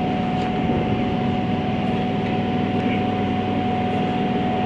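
Passenger train running: a steady low rumble with a steady high whine over it.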